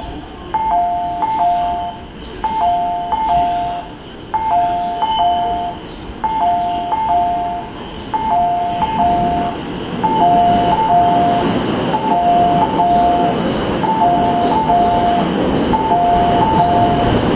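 A station platform's electronic two-tone warning chime, repeating about every two seconds as a train approaches. From about ten seconds in, the rumble of the arriving E233 series 3000 electric train grows louder underneath it.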